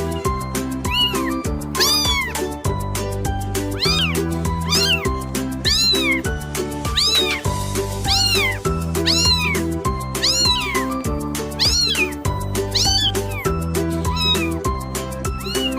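Cat meows repeating about once a second in time with a steady beat of background music.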